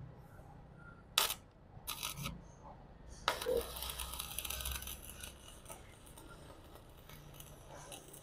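Stick-welding arc from a Lucky Star 285S welder running a 3.2 mm electrode on 5 mm steel plate: a sharp strike about a second in and another short burst at two seconds, then the arc catches and crackles steadily, cutting through the plate.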